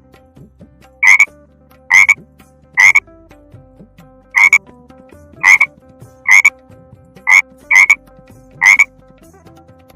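Frog croaking: nine short, loud croaks spaced roughly a second apart.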